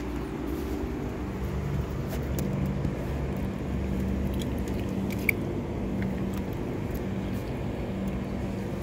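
A vehicle engine running steadily as a low hum, with a few faint clicks and one short sharp tick about five seconds in.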